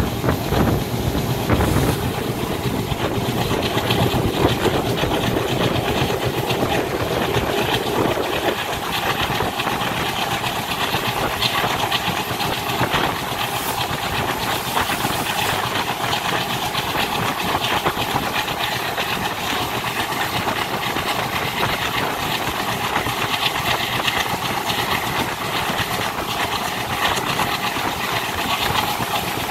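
Diesel-hauled passenger train running at speed, heard from the open door of its luggage van: a steady, loud rumble and rattle of wheels on rails mixed with rushing air. A deeper rumble eases off about eight seconds in.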